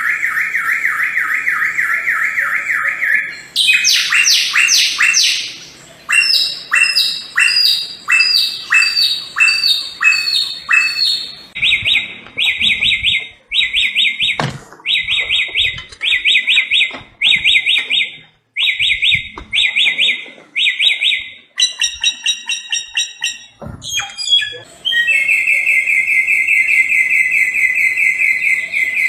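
Song of the Indonesian songbird known as samyong, given in loud repeated phrases: a fast steady trill for the first three seconds or so, then a run of sharp down-slurred notes, then quick clusters of notes, and near the end another long, even trill.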